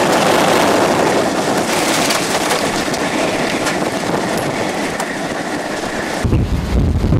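Tornado wind roaring steadily around a vehicle, heard from inside it: a loud rushing, train-like noise. About six seconds in it changes abruptly to a deeper rumble.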